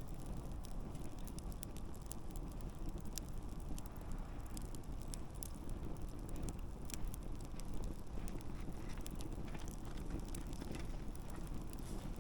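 Wood campfire burning with a steady low rush of flame and frequent sharp pops and crackles scattered irregularly throughout.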